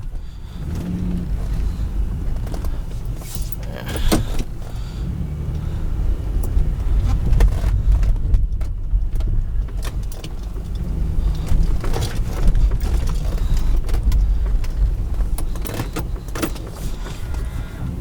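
Buick Rendezvous V6 engine running steadily with a low rumble, heard from inside the cabin, with a few sharp clicks and knocks along the way.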